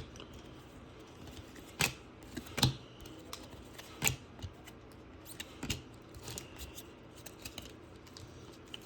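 Trading cards being flipped through by hand: quiet sliding with a handful of sharp, irregular clicks and snaps of card edges.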